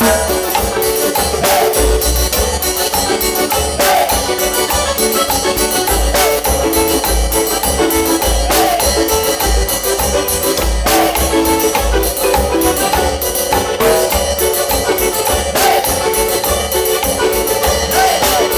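Live cumbia band playing with a steady dance beat: keyboard melody over bass, drums and shaken percussion.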